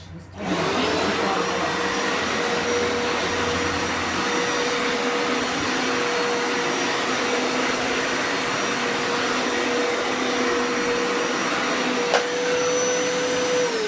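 Hoover TurboScrub carpet cleaner switched on, its motor spinning up to a steady high whine over a loud suction rush. There is a sharp click about twelve seconds in, and the motor winds down with a falling pitch just before the end.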